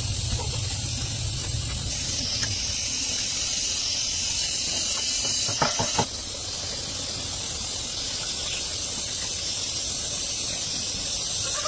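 Steady high-pitched hissing, like air or spray under pressure, with a low hum under it for the first two seconds and a few short clicks about six seconds in.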